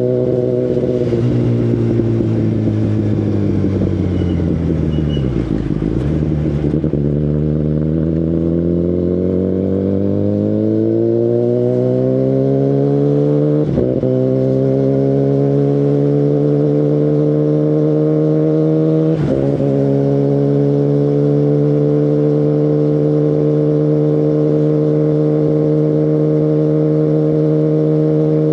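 Kawasaki Ninja ZX-10RR inline-four superbike engine through an Akrapovic full carbon exhaust. The engine slows and its note falls for about five seconds, then it pulls away with a slowly rising note, broken twice by short interruptions. Near the end it settles into a steady cruise.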